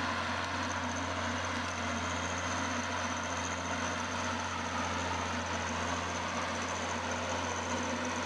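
Machinery running steadily: an engine or motor noise with a constant low hum and a thin high whine, no change in speed.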